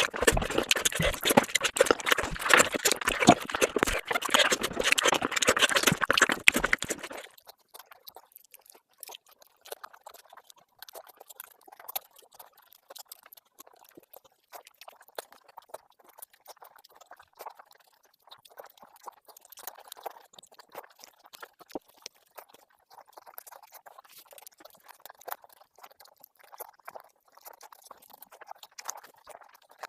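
Close-miked mukbang eating sounds of rice and fish curry: dense, loud wet chewing and smacking, dropping abruptly about seven seconds in to faint, scattered wet clicks.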